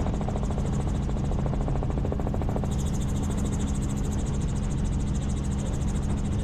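Helicopter in flight heard from inside the cabin: the steady drone of the turbine and rotor, with a fine rapid blade beat and a constant low hum.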